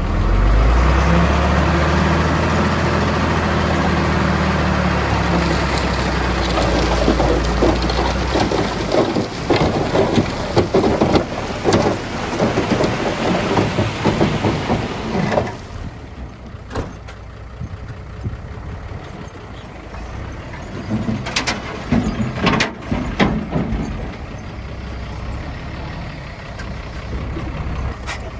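Heavy diesel earthmoving machinery at work, engine running hard, with rock and soil rattling and clattering for several seconds. The clatter stops suddenly halfway through, leaving the engine running more quietly with a few sharp knocks.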